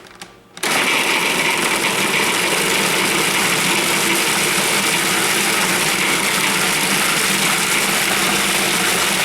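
Cuisinart food processor switching on about half a second in and running steadily, its blade puréeing chicken meat with egg white and basil into a forcemeat.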